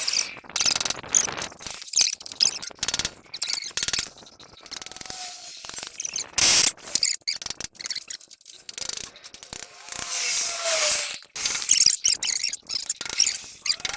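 Hand tools working on metal truck parts: irregular sharp metallic clicks, knocks and scrapes in quick, uneven spells.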